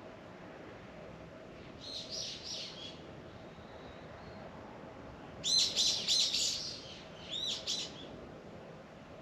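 A small songbird singing in quick high chirping phrases: a short phrase about two seconds in, a longer, louder one about halfway through, and a brief one soon after, over a faint steady outdoor background.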